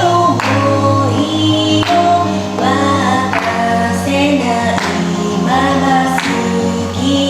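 Japanese idol pop song played loud: a female voice singing over a backing track with a steady beat.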